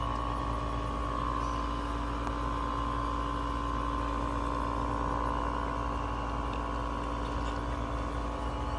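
Bee vacuum motor running steadily: an unbroken hum with a constant mid-pitched whine over a low rumble.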